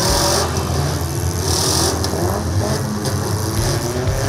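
Several demolition derby cars' engines running and revving together: a steady low rumble whose pitch wavers up and down, with two short surges of higher hissing noise.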